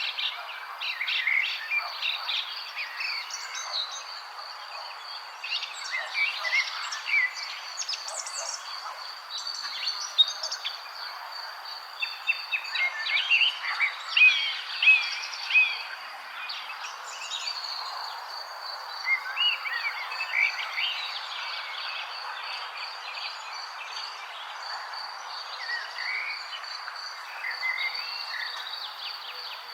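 Many birds chirping and singing in quick, overlapping short calls, busiest around the middle. Under them runs a continuous high, pulsing insect trill.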